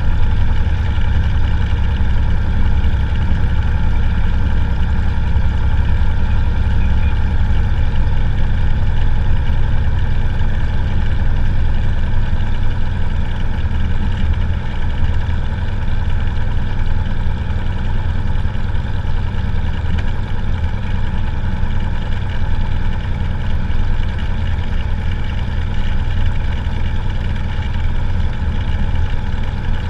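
Cessna 182's piston engine and propeller running steadily, a loud, even drone with no change in pitch.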